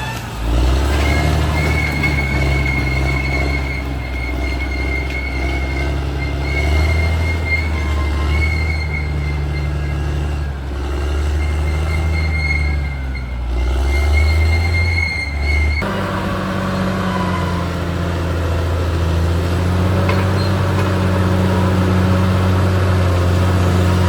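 Caterpillar D6R XL bulldozer working, its diesel engine running steadily under load with a high, steady metallic squeal from the running gear over the engine note. About two-thirds of the way through, the sound changes abruptly: the squeal stops and the engine note shifts.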